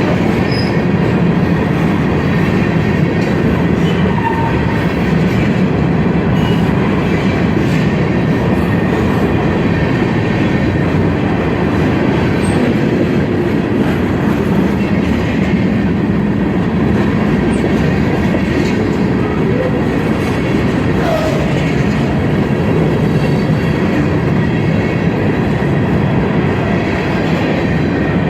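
Ferromex freight train rolling past: a steady, loud rumble of wheels on rail with clickety-clack over the rail joints and a few faint brief wheel squeaks.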